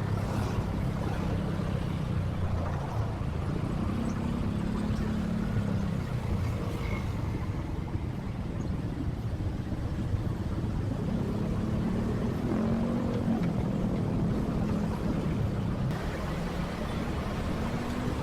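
Motorcycle engine running while riding in traffic, its pitch rising and falling a few times as the throttle opens and closes, over a steady low rumble.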